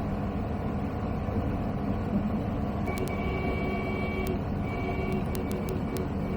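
Steady drone of the Zenith CH 701's Zonsen C100 engine, a Rotax 912ULS clone, and its three-blade propeller in flight, heard through the intercom. From about three seconds in, a high electronic tone sounds in several short stretches with a few clicks.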